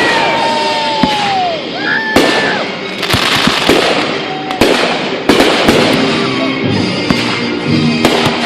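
Fireworks display: a rapid barrage of sharp bangs over dense crackling, with a whistling shell gliding in pitch about two seconds in.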